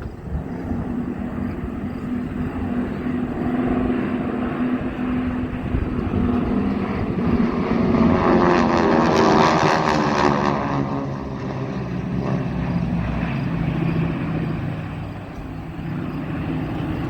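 A formation of six World War II propeller planes (GEICO Skytypers SNJ-2 trainers) droning with their 600-horsepower radial engines. The sound swells as the formation passes overhead about eight to eleven seconds in, its pitch falling as it goes by, then fades to a steady drone.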